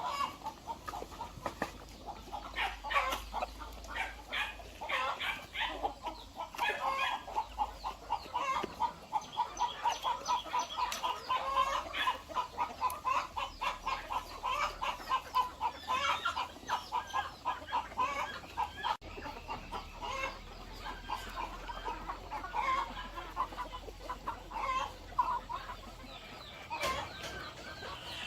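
A flock of chickens clucking continuously, with many overlapping short calls.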